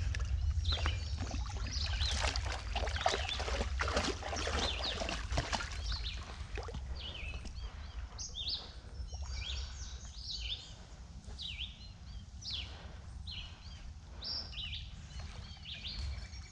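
Small birds chirping, short high calls repeating every second or so, over a steady low rumble like wind on the microphone. In the first few seconds there is also a busier stretch of rustling, knocks and water noise that then dies down.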